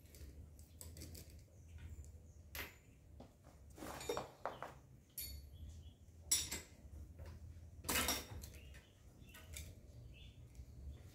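Metal tools and bicycle parts clinking and knocking at irregular intervals, with four or five sharper metallic knocks among lighter taps, over a steady low hum.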